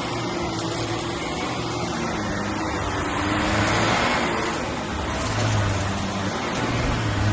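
Vacuum cleaner running steadily on carpet, a constant motor hum under a whoosh of suction that swells a little in places as it is pushed along.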